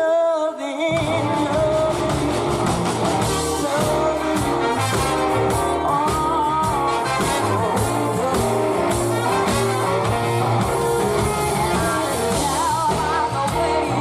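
Young girl singing live over a band. She holds a wavering note alone, then drums, bass and the rest of the band come in about a second in and play a funky, bluesy groove under her voice.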